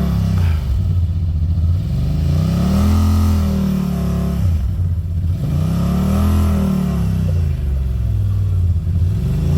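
Side-by-side UTV engine revving up and dropping back twice, its pitch rising and falling in long swells, then climbing again near the end, as the throttle is worked through a tight trail obstacle.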